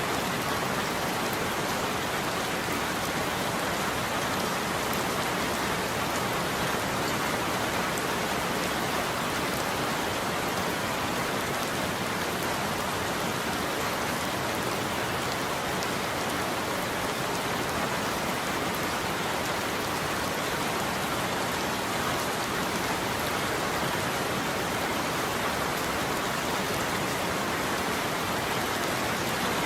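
Heavy rain falling steadily: an even, unbroken hiss of rain on surfaces with fine drop ticks, and no thunder.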